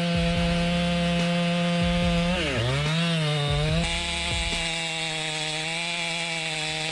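Chainsaw engine running at high revs while cutting wood, its pitch dropping sharply about two and a half seconds in and climbing back, then holding steady.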